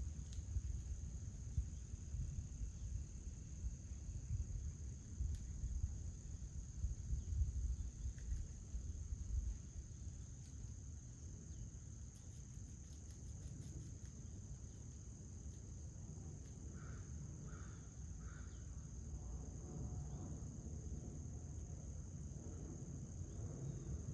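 Crickets trilling in a steady, high-pitched chorus over a low, uneven rumble, with three short bird notes about two-thirds of the way through.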